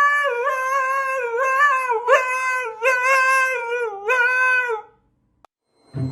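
A dog howling in long, wavering notes with short breaks, stopping about five seconds in.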